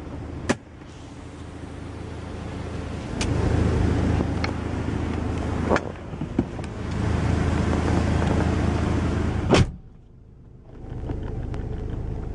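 A steady low engine hum from a car, swelling and easing, with a few sharp clicks over it.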